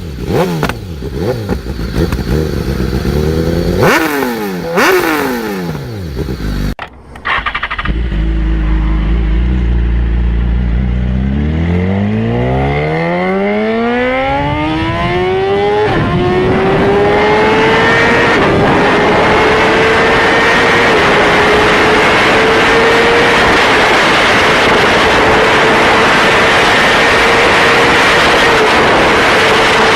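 A motorcycle engine at speed: two quick fly-bys with a falling pitch, then a hard acceleration whose pitch climbs steeply. It settles into a high, nearly steady note with small steps, under a growing rush of wind noise.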